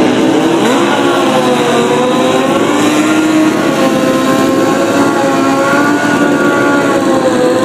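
Drag-racing motorcycle engines running loud, their pitch wavering up and down, with a quick rise about a second in.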